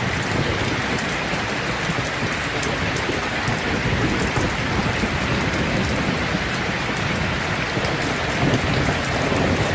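Steady heavy rain falling, an even hiss of drops, with a low rumble of thunder building near the end.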